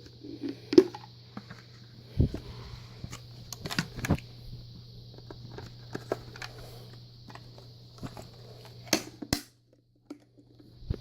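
Scattered clicks and knocks, like things being handled, over a faint steady hum. The sound drops out to silence for about a second near the end.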